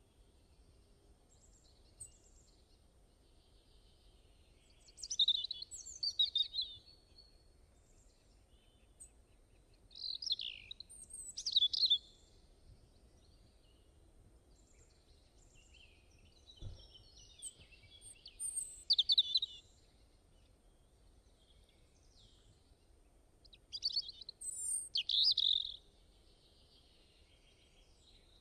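Songbird singing in short bursts of quick, high chirps and trills, one phrase every five or six seconds, with quiet gaps between. A brief low thump comes about halfway through.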